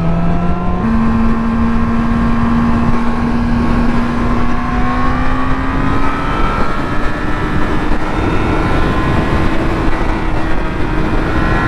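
Yamaha R6 inline-four sport bike engine pulling under acceleration on the stock exhaust, its note stepping up about a second in and then climbing slowly, with another step up near the end. Wind rush on the helmet microphone runs underneath.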